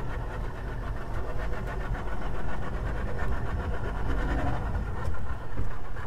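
Boat engine running steadily while the boat is under way.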